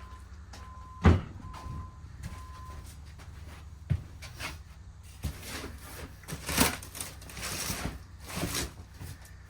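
Stored items being shifted and pulled out of a pile: a sharp knock about a second in, a few lighter knocks, then scraping and rustling in the second half.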